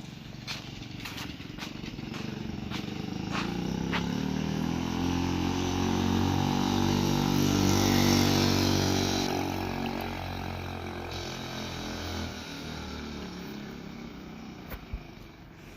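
Small 49 cc engine on a motorized 29-inch bicycle riding past: the engine sound builds, is loudest about eight seconds in, then fades away over the next few seconds. A few sharp clicks come in the first few seconds.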